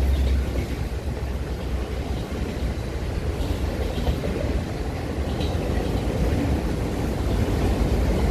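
Autorack freight cars rolling past on the rails: a steady rumble of steel wheels on track, growing a little louder near the end.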